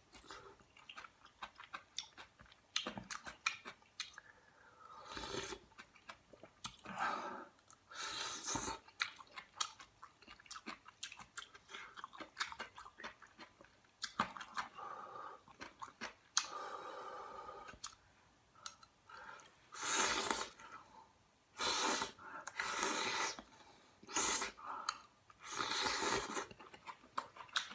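A person chewing and eating kimchi stew up close to the microphone: wet mouth sounds and short clicks, with several longer hissy stretches in the second half.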